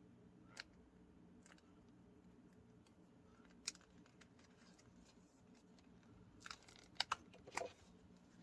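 Near silence over a faint steady hum, broken by a few small clicks and taps of craft pieces being handled, with a quick cluster of sharper clicks near the end.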